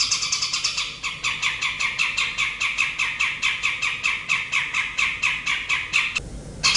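Recorded bird song: a fast chattering string of short, downward-sliding notes, about six a second, dropping lower in pitch about a second in, breaking off for a moment near the end and starting over.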